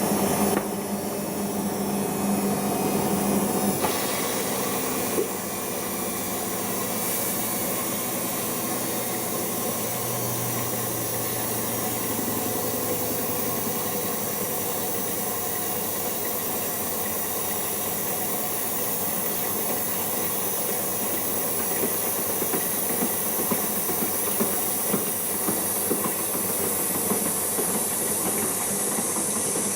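Siemens iQ washing machine in its first rinse: a steady hiss of water running into the drum, with a low hum in the first few seconds.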